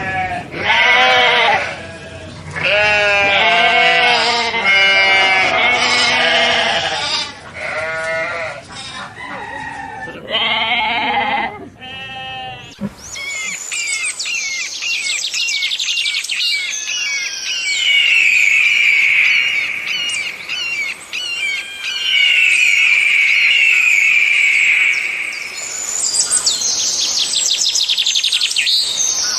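A series of loud bleats with a wavering, quavering pitch, one after another for about the first thirteen seconds. Then the sound switches to high-pitched chirps and trills, with a steady shrill trill most prominent in the middle of that stretch.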